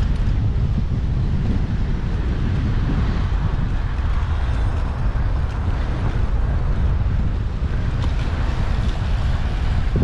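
Steady wind rumble on a bicycle-mounted action camera's microphone while riding, with a continuous haze of road and traffic noise underneath.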